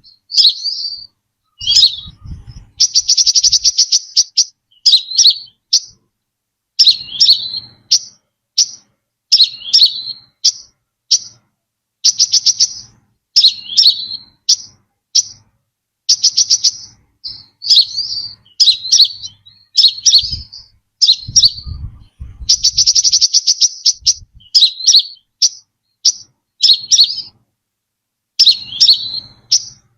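Brown-throated sunbird song: buzzy trills of rapid high ticks, each about a second long, alternating with short, sharp down-slurred chirps, repeated over and over with brief gaps.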